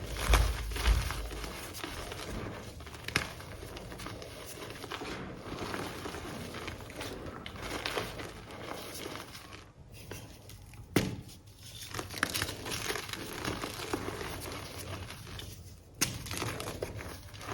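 Reformed gym chalk blocks being crushed and crumbled, a steady crackly crunching with a few sharper snaps as pieces break. It drops off briefly about ten seconds in, then starts again on the next block.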